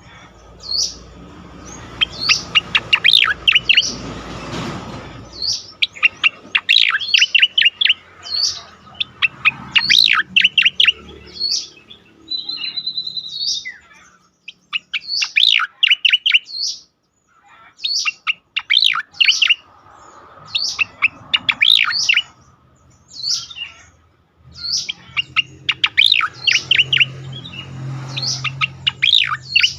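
Striated grassbird (cica koreng) singing in its 'ngejoss' style: rapid runs of high, sharp chirps in repeated phrases with short pauses between them. About twelve seconds in comes one short buzzy trill.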